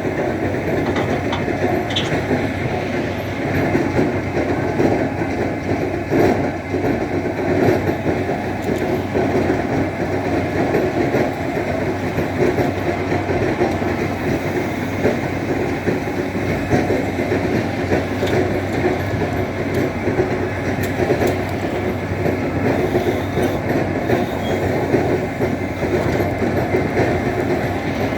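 Tractor loader's engine running steadily, a constant mechanical rumble with a faint steady hum and no break.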